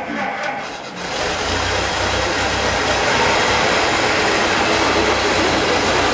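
A vintage open touring car's engine starts about a second in, then runs steadily.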